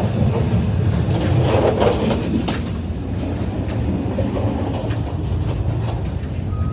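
Inside a moving passenger train carriage: the steady low rumble of the wheels on the track, with rattling and knocking of the carriage on the rough, shaky ride.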